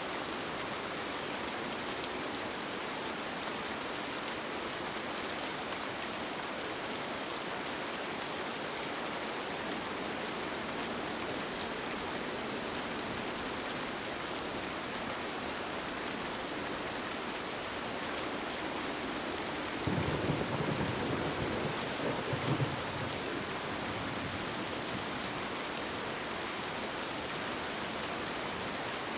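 Steady rain falling on a tent. About two-thirds of the way in, a low rumble rises for about three seconds and then fades.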